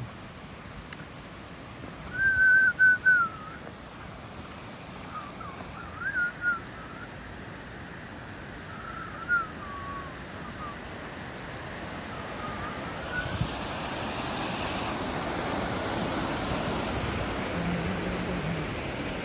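Four short warbling, whistled calls, the first the loudest, over a steady rushing noise that grows louder in the second half.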